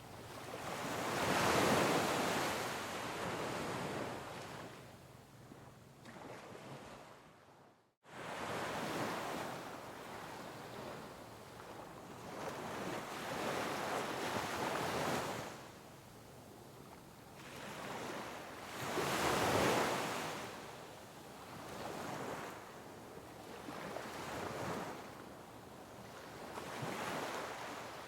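Sea waves breaking on rocks, surging and ebbing in swells every few seconds, the loudest breaks near the start and about two-thirds of the way through. The sound drops out for an instant about a third of the way in.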